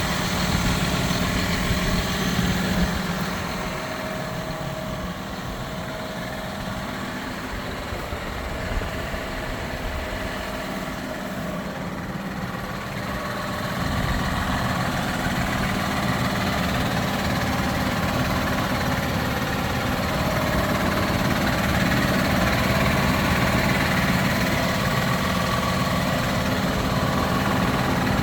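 John Deere 6155R tractor's six-cylinder diesel engine idling steadily; it turns quieter about four seconds in and louder again after about ten seconds.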